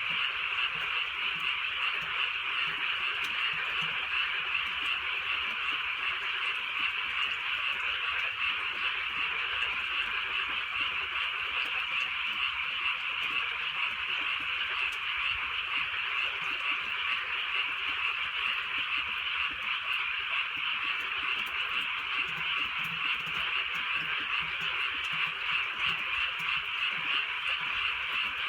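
Chorus of many frogs calling together, a steady unbroken mass of calls with no pauses.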